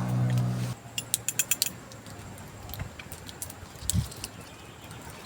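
A steady low hum that cuts off suddenly just under a second in, then a quick run of light metallic clinks and a few scattered clicks, like small metal camp gear being handled.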